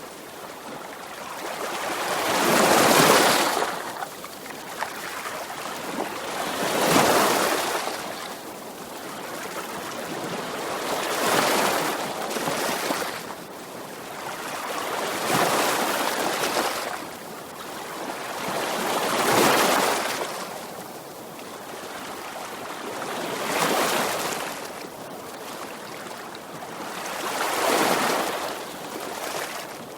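Sea waves, one swelling in and washing out about every four seconds.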